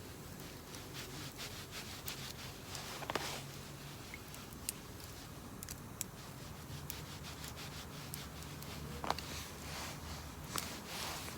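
Light rubbing and scraping with scattered small clicks, over a low steady hum.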